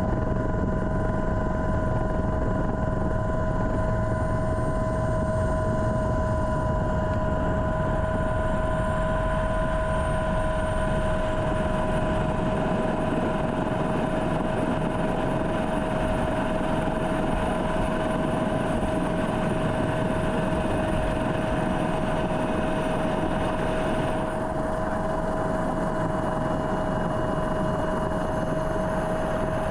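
Helicopter running steadily: a continuous drone of engine and rotor noise with a steady high-pitched whine, easing slightly about three-quarters of the way through.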